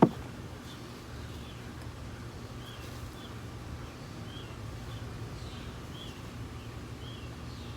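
A songbird chirping repeatedly in short, high, faint notes over a low steady rumble.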